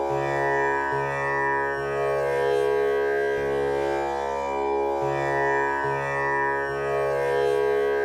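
Tanpura drone tuned to C# for a male voice. Its strings are plucked one after another in an unbroken repeating cycle of about five seconds, and each pluck sustains under the next, giving a continuous shimmer of overtones.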